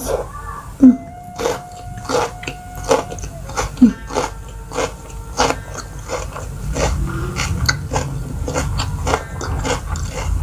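Close-miked chewing of a mouthful of raw bitter melon: crisp, wet crunches about twice a second, steady throughout.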